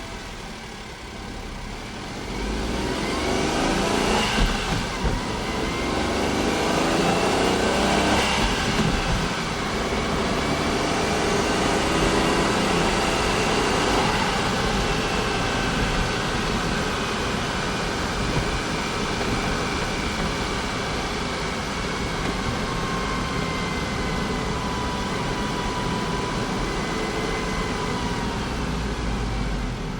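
Honda S660's turbocharged three-cylinder engine running, getting louder about two seconds in with its pitch rising and changing several times, then holding a steadier note that slowly falls.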